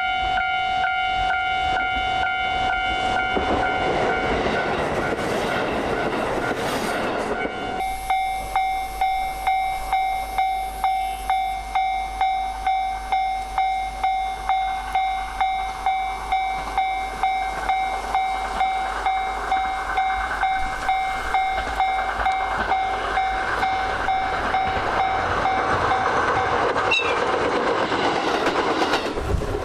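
Train passing, with a steady ringing tone throughout. From about eight seconds in there is a regular pulsing beat, about one and a half a second, over the running noise.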